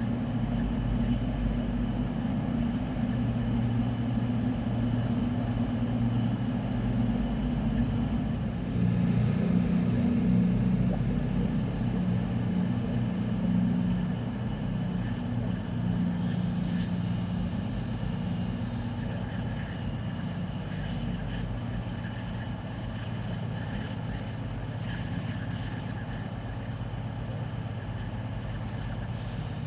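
Train running steadily: a low engine hum whose pitch shifts a few times, over a constant rumble.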